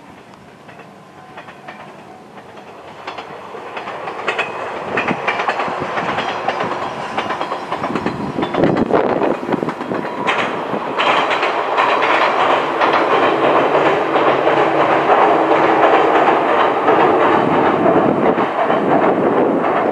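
Local electric train passing close by, its wheels clicking over the rail joints under a steady rumble. The sound grows louder over the first half as the train approaches, then stays loud.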